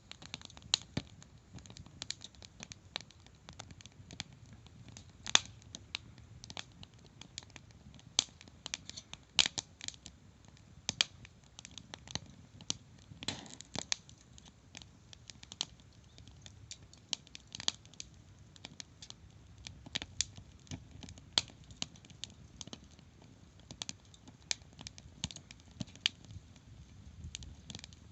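Wood fire crackling, with irregular sharp pops and snaps, a few louder than the rest.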